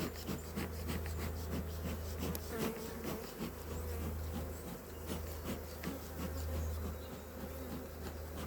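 Honeybees buzzing around an open hive: many short buzzes from individual bees flying close by, rising and falling in pitch over a steady low hum from the colony.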